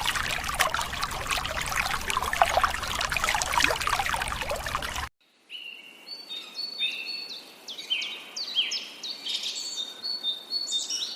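Water splashing and spattering for about five seconds, cut off abruptly. After a short gap comes bird chirping: many quick calls, each falling in pitch, repeated throughout.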